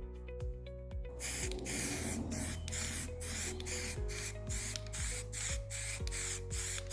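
Aerosol can of VHT black high-temperature paint spraying in quick short bursts, about two or three a second, starting about a second in.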